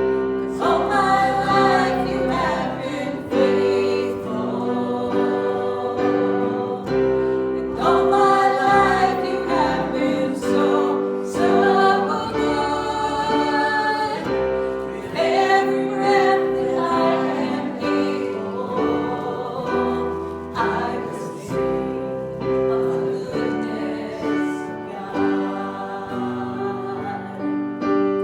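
Group of voices singing a gospel hymn together, with piano accompaniment.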